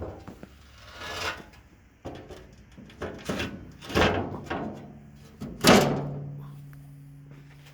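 Metal knocks and clanks as the steel loading ramp of a motorcycle lift is handled and its pegs are set into the lift. The loudest clank comes about two-thirds of the way through and leaves a low metallic ring that slowly dies away.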